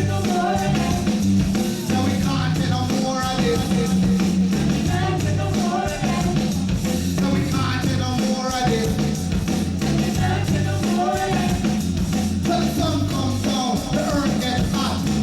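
Live reggae band playing a song, with a singer's voice over a steady bass line.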